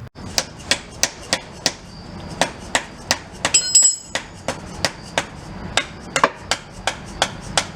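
Hammer blows on a seized engine-mount bolt, a steady run of sharp strikes about three a second, to beat the stuck part free. About three and a half seconds in there is a brief cluster of ringing metallic clinks.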